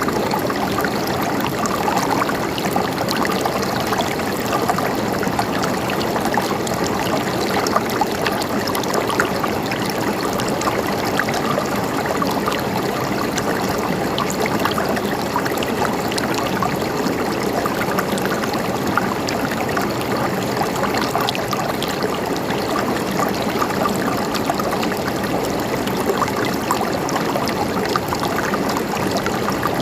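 Running water, like a small stream, trickling and gurgling steadily with many tiny splashes.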